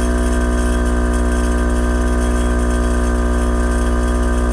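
Car engine idling steadily, an even low drone that holds the same speed throughout.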